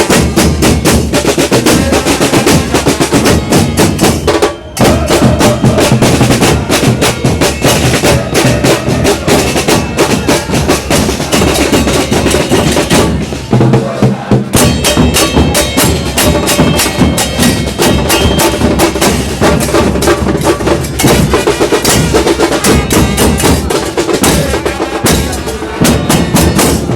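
Loud percussion-driven music: drums with snare rolls and bass drum, beating continuously with two brief breaks.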